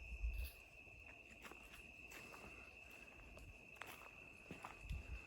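Insects calling in one steady high-pitched drone, faint, with a couple of soft low thumps at the start and near the end.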